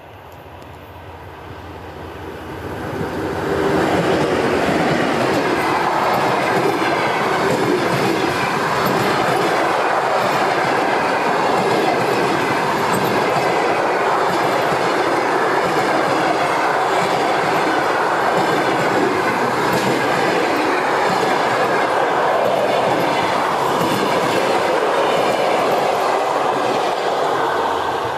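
Baggage train passing close by: the steady rush and clickety-clack of its wagons' wheels over the rail joints. It builds over the first few seconds, holds steady, and starts to fade near the end.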